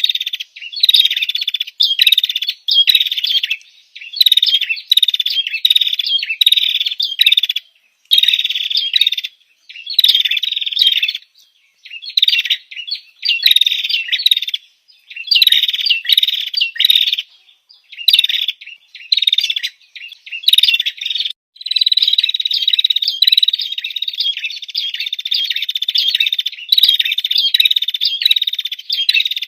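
Female prinia (prenjak) calling: rapid, high chirping trills in short bursts about a second apart, with one longer unbroken run past the middle. This is the female's call to a male, used as a lure call.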